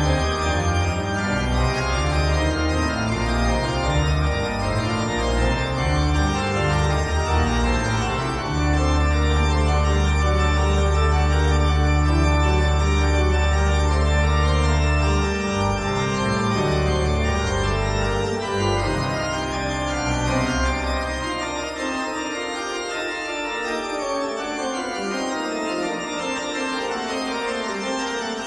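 Background organ music: sustained chords over a moving bass line, with one long held chord near the middle and the bass dropping away in the last few seconds.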